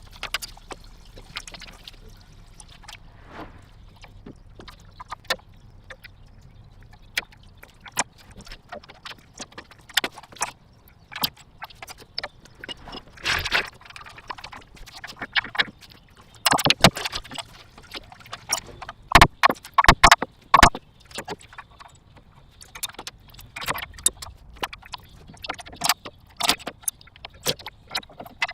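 Quick, irregular metallic clicks, clinks and knocks of hand tools and parts during work on a car's engine bay, coming in bursts and loudest past the middle.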